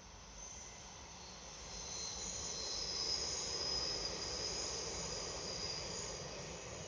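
A train passing along the line: a rolling rumble that builds to its loudest about three seconds in and then fades as it moves away, with a thin high ringing above it.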